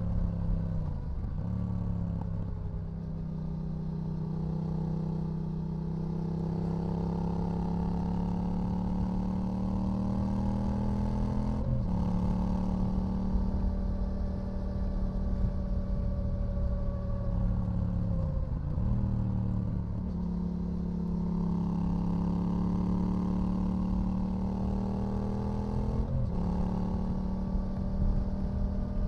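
2018 Yamaha XSR700's 689 cc parallel-twin engine running through a full LeoVince LV One EVO exhaust under way, its pitch climbing slowly for several seconds at a time. Two sharp breaks come at gear changes, near the middle and near the end, with a dip in pitch in between as it slows and picks up again.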